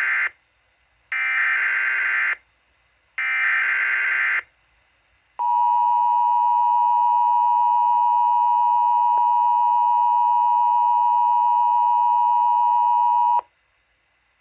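Emergency Alert System broadcast tones: the SAME header's screeching digital data bursts, three in a row of about a second each, then the two-tone attention signal, a steady dual tone held about eight seconds before it cuts off sharply, announcing the storm warning that follows.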